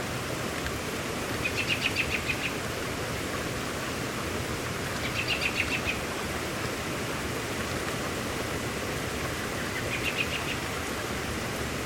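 Steady hiss of heavy rain falling. A bird calls three times over it, each call a short run of rapid repeated notes.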